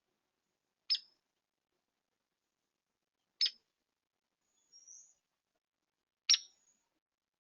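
Small bird at a feeder giving three short, sharp calls, each a quick downward sweep from high pitch, about three seconds apart, with a faint high twitter between the second and third.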